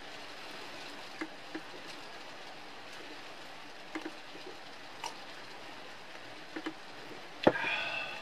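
Steady rain on a tin roof, with scattered sharp drip ticks every second or so. Near the end, a single sharp knock followed by a brief pitched sound.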